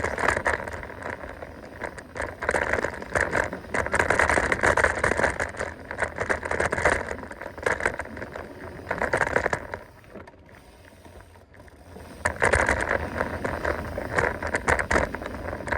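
Mountain bike running fast downhill on a dirt trail: a steady noise of tyres, rattling bike parts and rushing air that rises and falls in surges, dropping away for about two seconds near the ten-second mark before picking up again.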